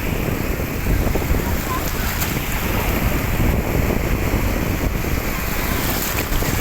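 Steady rushing noise with a heavy, uneven low rumble, like wind buffeting the microphone.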